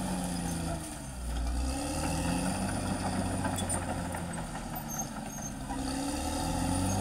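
Caterpillar D6R XL bulldozer's diesel engine working under changing load. Its pitch drops about a second in and climbs back, then dips and rises again near the end.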